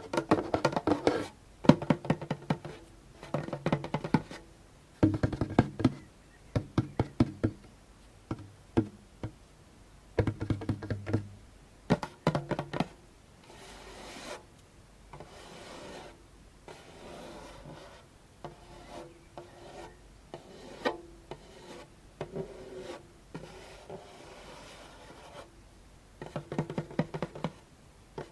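Djembe drum tapped quickly with the fingertips in short runs, a low ring sounding under the taps; then softer scratching and rubbing across the drumhead for about twelve seconds, with tapping again near the end.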